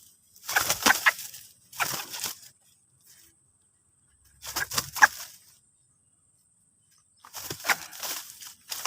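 White-breasted waterhen chick calls, in short bursts of chirping repeated every one to three seconds.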